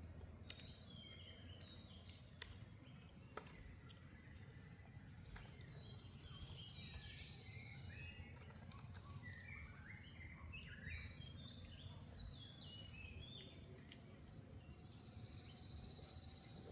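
Faint outdoor ambience with a steady low rumble, and runs of quick, high chirping calls that step downward in pitch. The calls come briefly in the first few seconds and then thickly through the middle. A few sharp clicks sound in the first few seconds.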